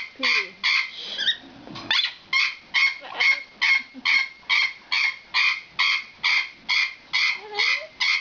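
Amazon parrot squeaking in a rapid, steady series of short calls, about two or three a second, with a brief break about a second in filled by a few sliding whistle-like notes.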